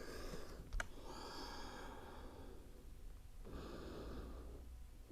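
A person breathing slowly and audibly during a yoga stretch, two long breaths a couple of seconds apart, with one light click just before the first.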